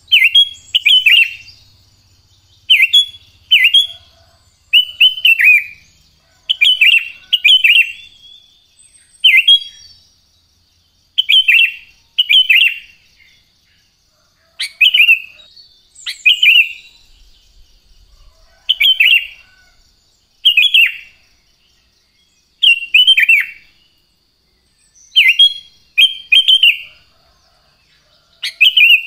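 Sooty-headed bulbul (kutilang) singing loud short phrases of two or three quick falling notes, repeated every second or two.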